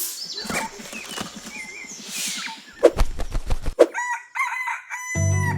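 Chickens clucking, with a couple of sharp knocks, then a rooster crowing once, held for about a second and a half, in the second half. Music with a low bass line comes in right at the end.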